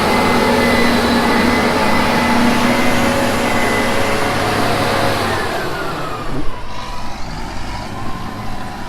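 Loud farm machinery running steadily with a mix of engine and fan-like noise and several steady whines; about five seconds in, one whine slides down in pitch and the noise eases off.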